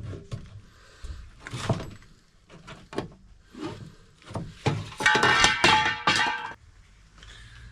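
A series of sharp knocks and thuds, with a louder rattling, scraping stretch from about five to six and a half seconds in.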